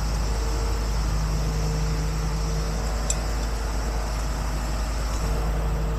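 Heavy truck engine idling steadily with a low rumble, its hum dropping back briefly about four seconds in.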